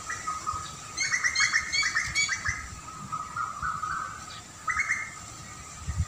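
Birds singing: a quick burst of rapid chirping notes about a second in, and another short chirp near the end, over a steady high drone.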